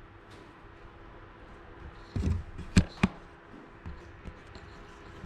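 A few light knocks and clicks of handling, about two to three seconds in, over quiet room tone.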